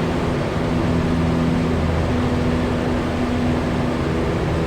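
Cessna 172's piston engine and propeller running steadily at constant cruise power, heard from inside the cabin as a continuous hum with a low steady tone.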